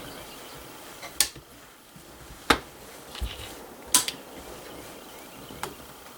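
Four sharp metallic clicks a second or so apart, the second the loudest, from hands working a flintlock rifle's lock.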